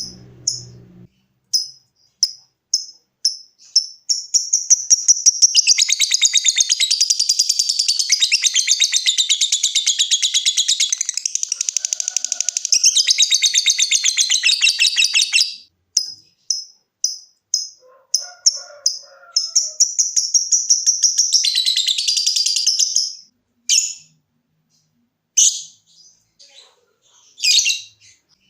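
Lovebird singing. It gives short separate high chirps about two a second (the 'ngetik' call), then breaks into a long fast chattering trill of about eleven seconds (the prized 'ngekek'). More chirps follow, then a second, shorter trill and a few scattered calls near the end.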